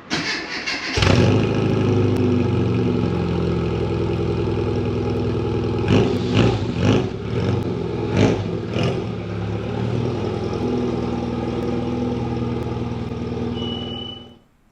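Rover Mini's A-series four-cylinder engine being started: a short spell of cranking, then it catches about a second in and idles. It is blipped several times in the middle, and a short high beep sounds just before the sound cuts off abruptly.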